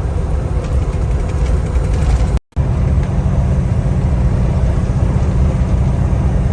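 Steady low rumble of a semi truck's engine and road noise heard inside the cab while driving, with a brief cut-out about two and a half seconds in.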